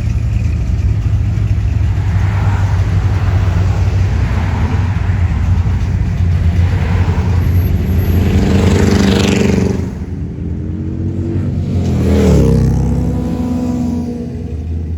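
Classic cars' engines and exhausts running as the cars cruise past, a steady low rumble. One engine revs up, climbing in pitch about eight seconds in and dropping away suddenly near ten seconds; another revs up and is loudest just after twelve seconds.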